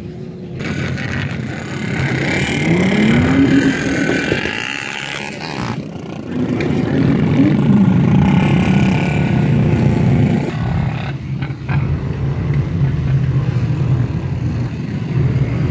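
Off-road SUV and pickup truck engines revving, the pitch climbing steeply a couple of times, over a steady low drone of many engines running.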